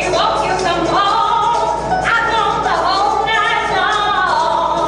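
Music with singing: a voice holding and sliding between notes over the accompaniment.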